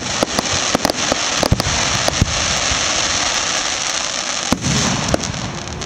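Aerial fireworks shells bursting: a run of sharp bangs and pops, the loudest about a second and a half, two, and four and a half seconds in, over a continuous loud hiss.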